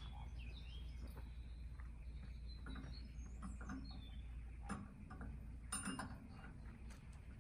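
Small birds chirping faintly over a low steady rumble, with a few sharp clicks near the middle.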